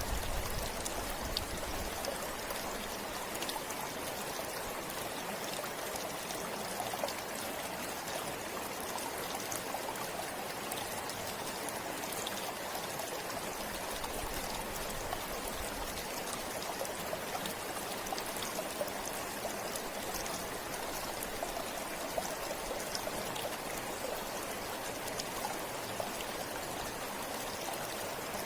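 River water flowing steadily over rocks, a continuous rushing wash with small splashes and trickles through it.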